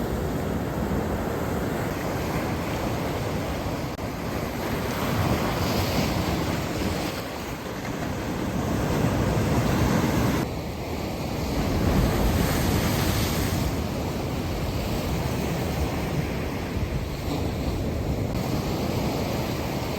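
Sea waves breaking and washing up a beach, swelling and falling away every few seconds, with wind buffeting the microphone.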